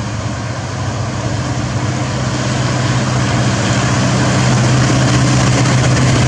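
Diesel locomotive engine running with a steady low drone, growing steadily louder as the train approaches.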